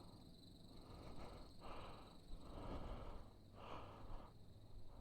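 Faint breathing close to the microphone, soft swells about once a second over a low background rumble.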